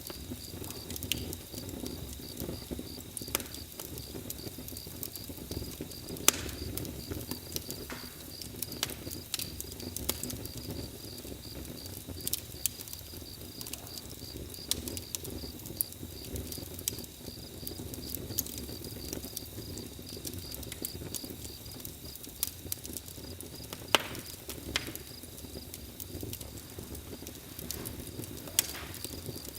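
Campfire crackling: scattered sharp pops and snaps over a low steady rumble of burning wood, with a cricket chirping in an even rapid pulse.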